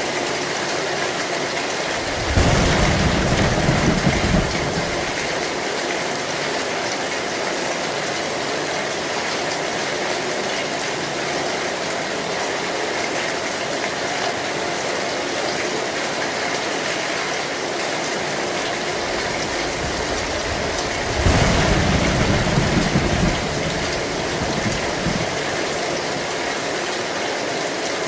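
Heavy rain falling steadily on a metal (zinc) roof, a constant hiss. Two short low rumbles of thunder, each about two seconds long, come a couple of seconds in and again about three quarters of the way through.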